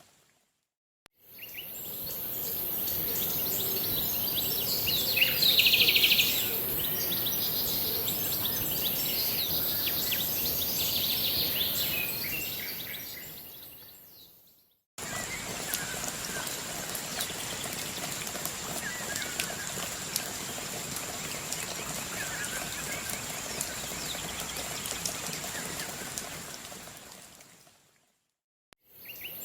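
Assorted birds chirping and calling over a steady high hiss, in two stretches that each fade in and out; the loudest calls come about five seconds in.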